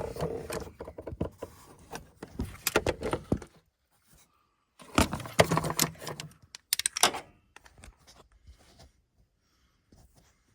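Hand tools clicking and clinking against metal as the first T45 Torx screw is worked loose. The clicks come in two bursts, one over the first three seconds and another about five to seven seconds in, with only faint ticks after.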